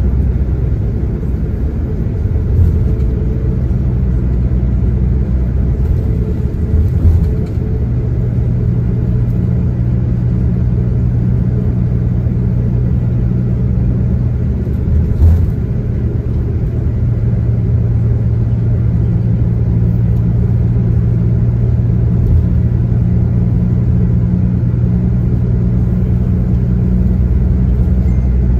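Inside a diesel shuttle coach while it drives: steady engine drone with road rumble, and two brief knocks from bumps, one about a quarter of the way in and one about halfway through.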